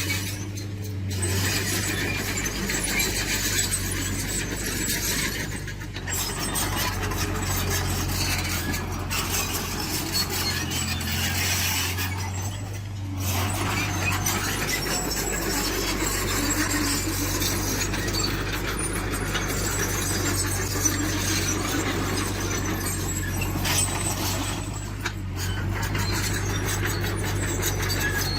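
Diesel engine of a tracked earthmoving machine running steadily, with squealing and clinking of the steel tracks.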